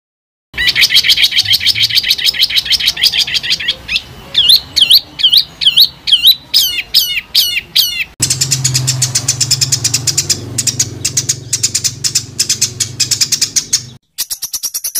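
Songbird masteran material: several different birds' call clips spliced one after another, with abrupt cuts between them. First a dense run of rapid chirps, then swooping down-and-up whistled notes that quicken, then a high, fast trill over a low hum.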